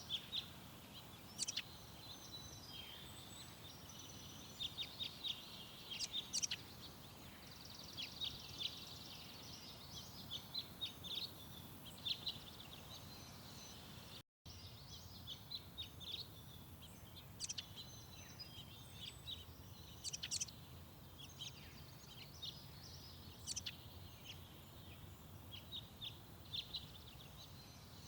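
Small garden songbirds chirping and calling, many short high chirps and brief trills coming one after another over a steady faint background hiss. The sound drops out completely for an instant about halfway through.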